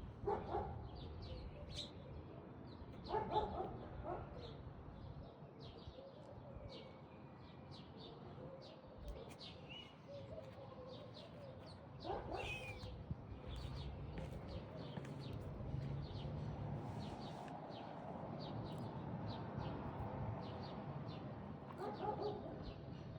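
Small birds chirping repeatedly throughout, with a few short, louder animal calls breaking in now and then.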